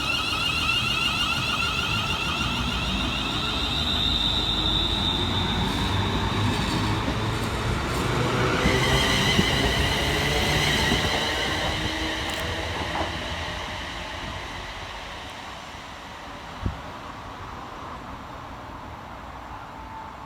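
ScotRail Class 380 Desiro electric multiple unit pulling away from the platform, its traction equipment whining in several tones over the rumble of the wheels. The sound swells, then fades away over the last few seconds, with one sharp knock about three-quarters of the way through.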